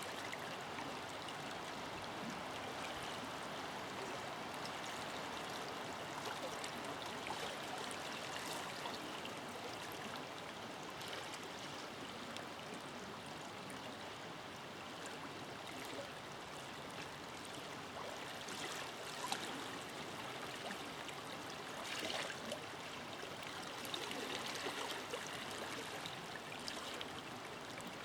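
Forest river flowing steadily, an even rush of water with small splashes and gurgles, a little livelier about two thirds of the way through.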